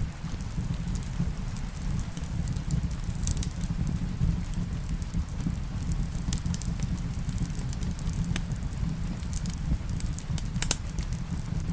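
Wood fire in a fireplace crackling, with scattered sharp pops over a steady low rumble; one louder pop comes near the end.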